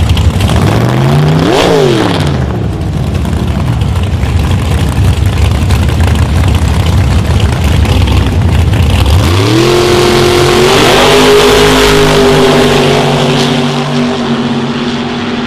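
Loud drag-racing engines. About a second and a half in, an engine revs sharply up and back down. About nine seconds in, an engine revs up and holds a high, steady pitch.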